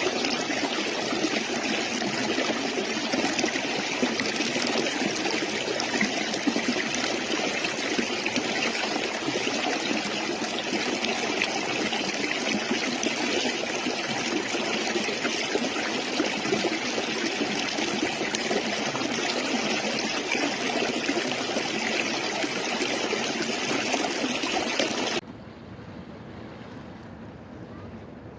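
Stream water running steadily, an even rushing sound; about 25 seconds in it cuts off abruptly to a much quieter, duller background.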